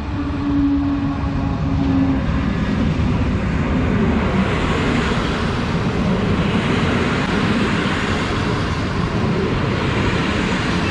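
PKP Intercity EU160 electric locomotive and its passenger coaches rolling into the station, a steady rumble of wheels on rail that grows louder and then holds. A steady tone sounds for about the first two seconds.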